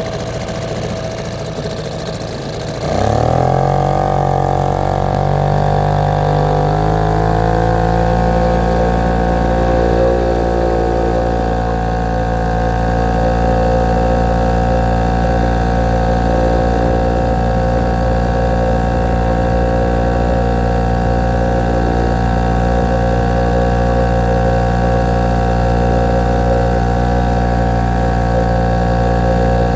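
1956 British Seagull 102 single-cylinder two-stroke outboard motor, freshly fitted with new piston rings and gaskets, speeding up sharply about three seconds in, then running steadily.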